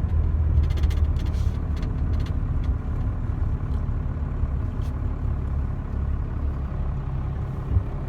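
Dodge pickup's diesel engine running with a steady low rumble, easing off slightly. A few light clicks and rattles come in the first couple of seconds.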